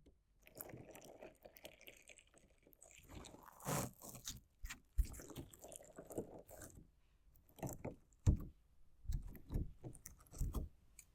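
Crunchy slime and small decorative stones being worked close to the microphone: irregular crunches and scrapes with sharp clicks, the loudest in a cluster near the end.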